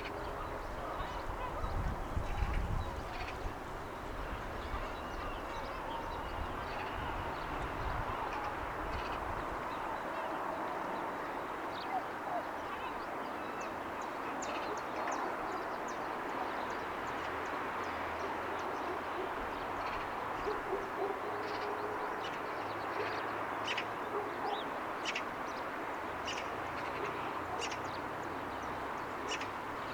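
Early-morning city ambience: a steady distant hum with birds calling and chirping, the short chirps coming more often in the second half. A low rumble near the start is the loudest moment.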